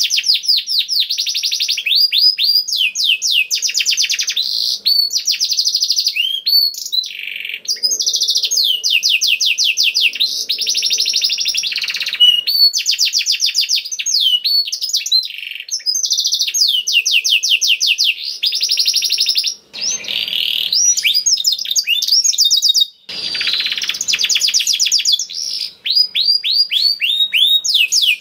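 Domestic canary singing a long, continuous song of rapid repeated trilled notes, phrase after phrase, with short breaks about two-thirds of the way through.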